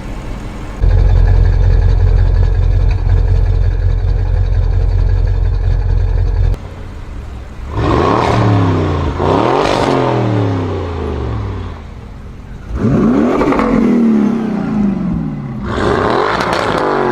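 Audi RS6 C7 Performance's twin-turbo V8 through a Milltek exhaust: a loud steady low rumble for about six seconds that cuts off suddenly, then three hard revs with the pitch climbing and falling each time.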